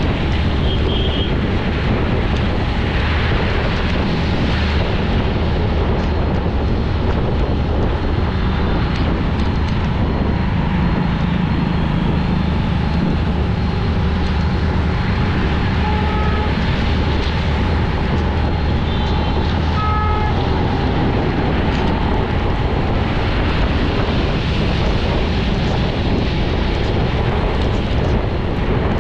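Steady road and wind noise from a vehicle driving through city traffic, with a few short beeps past the middle.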